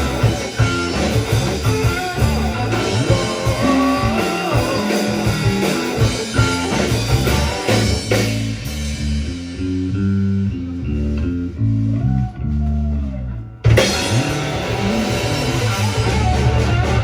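Live rock band playing electric guitar, bass guitar and drum kit. About halfway through, the drums and cymbals drop out, leaving bass and guitar, and the full band comes back in with a sharp hit a few seconds later.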